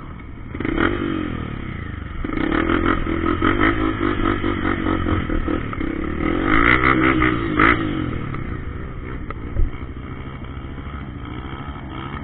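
Trail motorcycle engines running and revving up and down, with one short sharp knock about ten seconds in.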